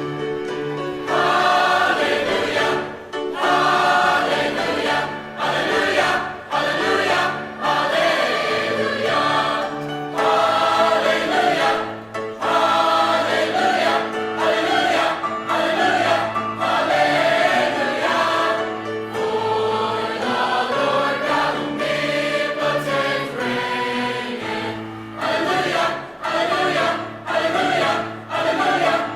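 High school choir singing a Christmas song, with short breaks between phrases.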